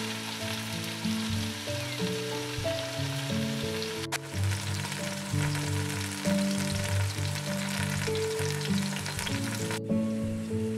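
Courgette slices sizzling as they fry in oil in a pan, with background music carrying a simple melody. The sizzle changes abruptly twice where the footage is cut.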